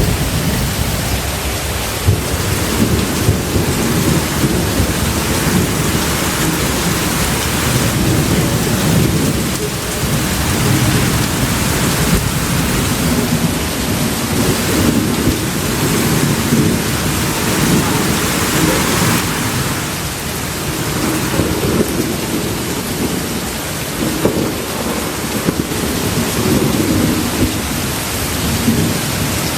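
Steady rain with low, rolling thunder rumbling beneath it.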